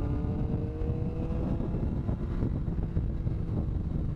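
Motorcycle engine accelerating, its pitch rising for about a second and a half and then levelling off, under heavy wind rush on the microphone while riding.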